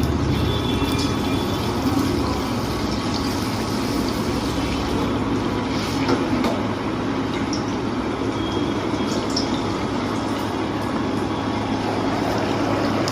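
Sabudana vadas deep-frying in hot oil: a steady sizzle with a few small pops.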